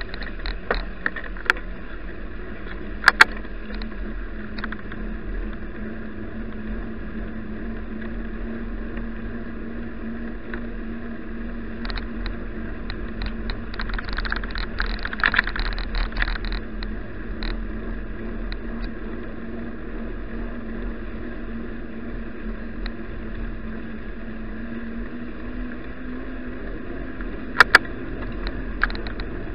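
Steady riding noise from a bicycle ride, tyre and wind noise on an action camera's microphone, with a couple of sharp knocks about three seconds in and again near the end.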